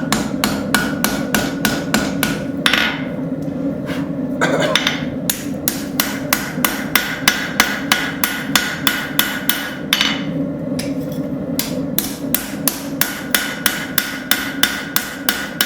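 Hand hammer striking a hot railroad spike on the anvil in light, quick planishing taps, about three a second, in runs broken by short pauses. The taps smooth the finished letter-opener blade. A steady hum runs underneath.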